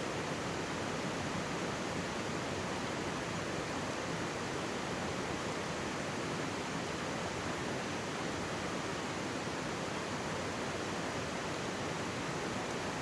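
Mountain stream flowing right beside the microphone: a steady, even rush of water with no let-up.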